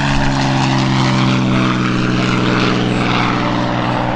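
P-51D Mustang's Packard Merlin V-12 engine running loud and steady with its propeller, beginning to fade near the end.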